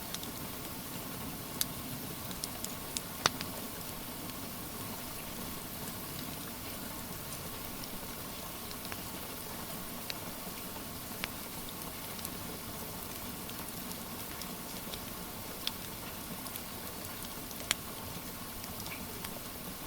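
Steady rain hiss with the scattered sharp crackles and pops of a wood fire, the loudest pop a little over 3 seconds in.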